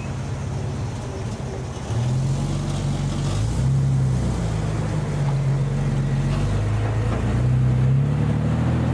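Car engines pulling away from idle, led by a nearby four-wheel-drive SUV; the engine noise gets louder about two seconds in and rises and falls in pitch as the vehicles accelerate.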